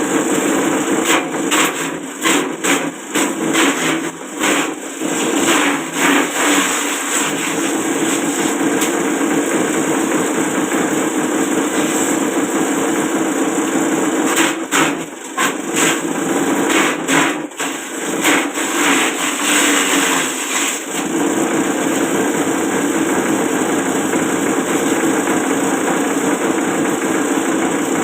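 Small grass chopper machine driven by a 1/4 hp electric motor, running steadily, with stretches of irregular chopping and knocking as material is fed through its blades, in the first several seconds and again from about the middle to about three-quarters through.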